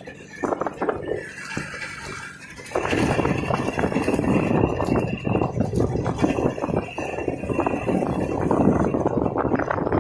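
IZh Jupiter 3 motorcycle's two-stroke twin engine running with a rapid rattling beat, coming in suddenly about three seconds in after a few light clicks.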